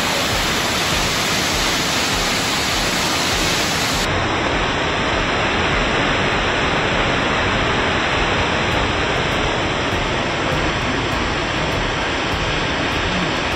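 The Black Spout, a 60 m waterfall, pouring into its gorge: a steady rushing noise of falling water.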